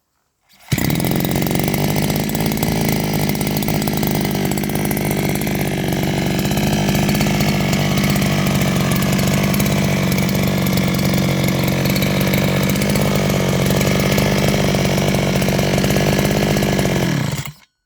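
A 36 cc 36F brush cutter (strimmer) engine, running on its own, starts abruptly and runs loud and steady at an even speed. It cuts off shortly before the end.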